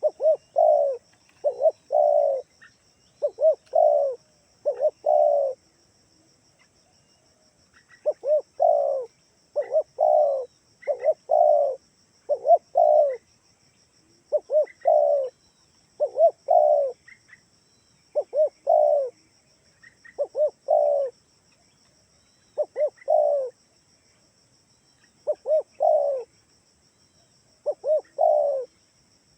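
Spotted dove (tekukur) cooing. Its call is repeated over and over in phrases of two to four coos, separated by short pauses, with one longer gap of about two and a half seconds early on.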